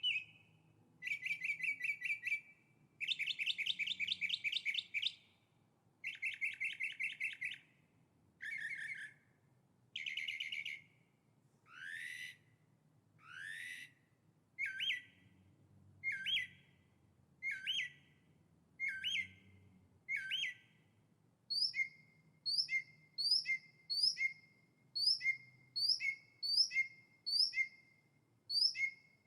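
A songbird singing a varied series of phrases: several rapid, buzzy trills in the first half, then two rising sweeps, then a long steady run of short repeated two-part notes, a little under two a second.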